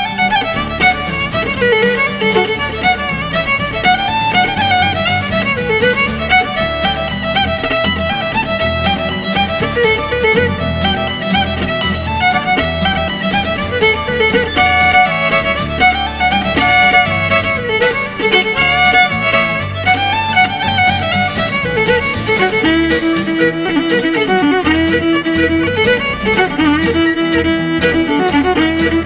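Fiddle playing a fast traditional dance tune, a quick run of notes over a lower accompaniment of sustained bass notes.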